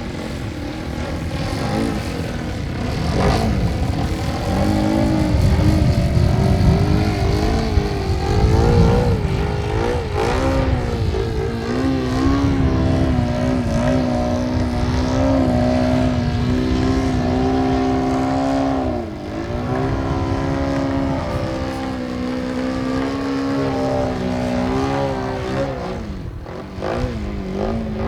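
Radio-controlled model airplane's engine and propeller in flight, the pitch wavering up and down with throttle and dropping sharply twice as the plane passes by. Wind on the microphone rumbles during the first third.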